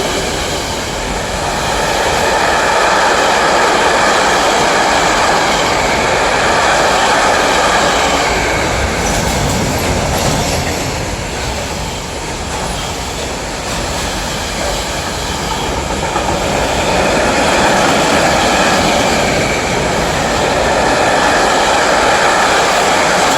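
Electric freight train rolling past: a loud, continuous rumble of wagons and wheels on the rails, rising and falling in loudness a few times.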